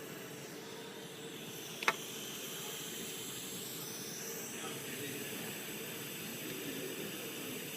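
Steady hiss of a jeweller's torch flame heating a platinum ring, with one sharp click about two seconds in.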